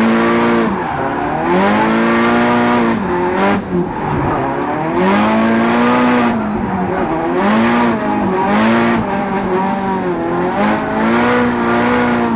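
Drift car engine revving hard and dropping off again, in about seven rising-and-falling swells of throttle, with tyre squeal underneath.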